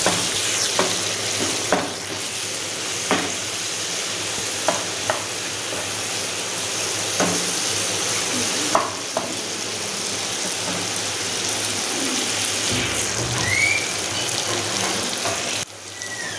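Boneless chicken pieces sizzling in hot oil in a nonstick frying pan, a steady hiss, with a spatula scraping and tapping against the pan now and then as the chicken is stirred.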